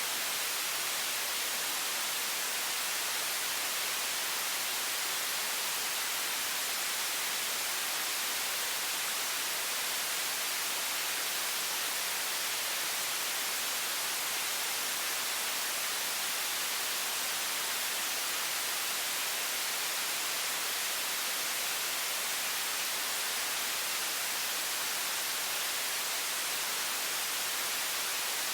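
Water faucet running at high pressure: a steady, even, bright hiss that never changes.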